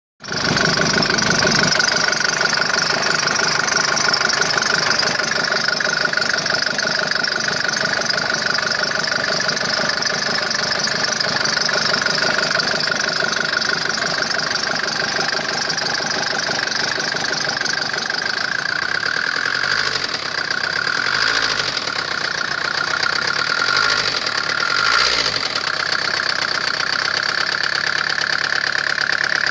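Mercedes-Benz OM601 four-cylinder diesel engine running steadily with a knock, the fault this recording is meant to show. A few sharp clicks stand out between about twenty and twenty-five seconds in.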